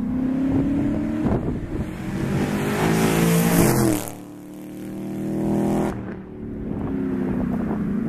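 2013 Ford Mustang GT's 5.0 V8 through an off-road X-pipe and Pypes Bomb axle-back exhaust, accelerating hard past. The note rises to its loudest about four seconds in, then drops abruptly as the throttle comes off, and the exhaust carries on at a lower steady note.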